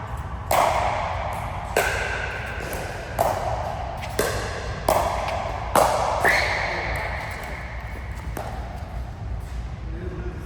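A rally of sharp ball strikes, about eight hits roughly a second apart, each ringing and echoing in a large indoor hall.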